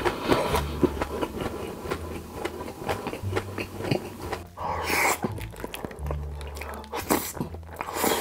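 Close-miked chewing of a full mouth of cheesy food: quick wet smacking and clicking mouth sounds, with a louder breathy burst about five seconds in.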